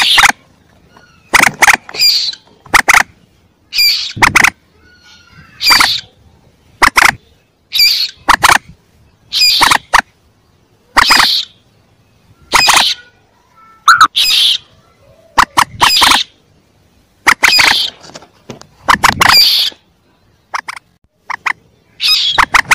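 Young common moorhen calls: short, sharp, loud calls repeated at irregular intervals about once a second, some in quick pairs.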